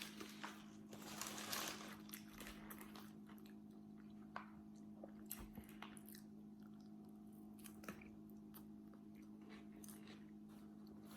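Faint mouth sounds of a person biting and chewing a burger and fries close to the microphone, with small wet clicks and smacks, busiest about a second in.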